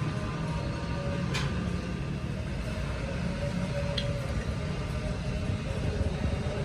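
Workshop machinery running with a steady low rumble and a faint hum, with two light sharp clicks, one early and one about four seconds in.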